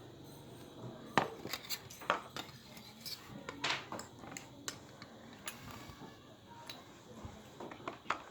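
Eating utensils clicking and scraping against a bowl of noodle soup in a scatter of sharp clinks, the loudest about a second in.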